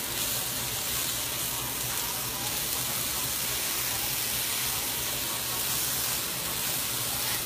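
Spaghetti squash latkes frying in hot oil in a pan, a steady even sizzle.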